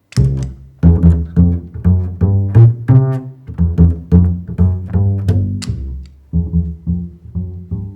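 Double bass played pizzicato through an effects pedal board: a rhythmic line of low plucked notes with sharp finger attacks, the opening phrase of a loop being set up on a loop pedal.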